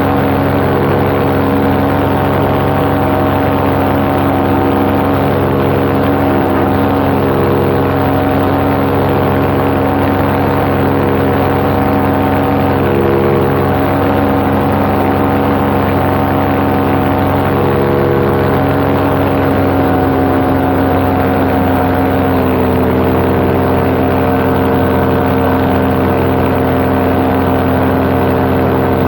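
Paramotor engine and propeller running steadily in cruise flight, heard from the pilot's seat, with the pitch settling slightly lower about three-quarters of the way through.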